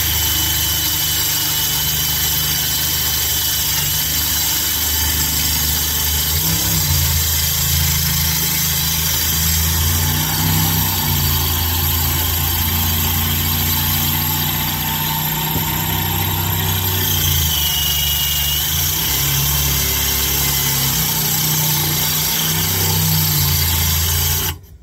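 Cordless drill running under load, its bit grinding slowly into hard steel on the wheel hub, with a steady hum and a high whine; it stops suddenly near the end. Progress is slow: the bit is burning up against the hard metal.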